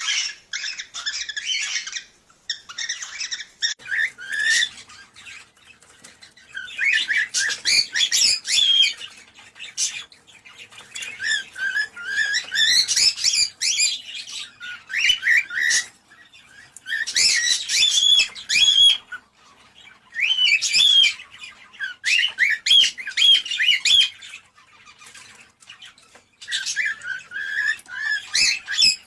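Cockatiels calling and warbling in phrases of quick chirps and whistles, each a second or two long with short pauses between. It is the kind of chorus played to stimulate cockatiels to breed.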